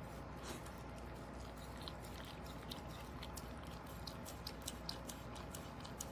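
Dog eating soft cooked food: wet chewing and licking with a run of short, quick clicks that come thicker in the second half.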